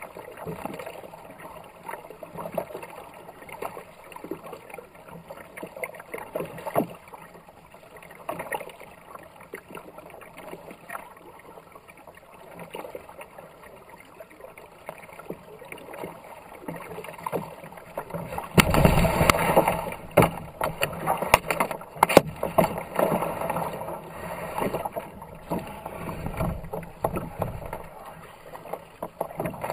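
Kayak paddle strokes and water splashing on a fast-running river. About two-thirds of the way through, the rush of water becomes much louder.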